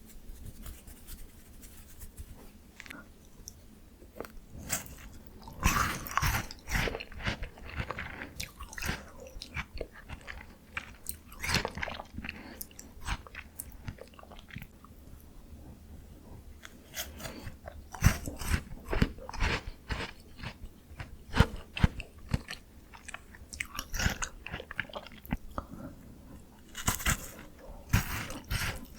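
Close-miked biting and chewing of a frozen ice bar, with irregular crisp crunches that come in clusters.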